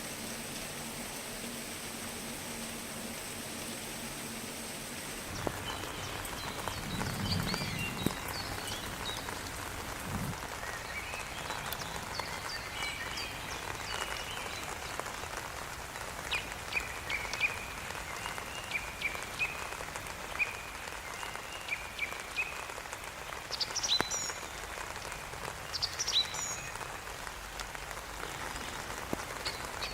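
Steady rain falling, its sound changing abruptly about five seconds in; after that, short high chirping animal calls come and go over the rain.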